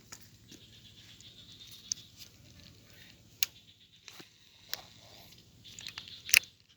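A few scattered sharp clicks and light rustling over a faint hiss, the loudest click coming near the end.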